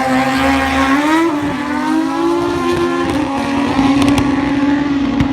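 Racing motorcycle engine at high revs. Its note jumps up just as the sound begins, then holds high with small rises and dips in pitch.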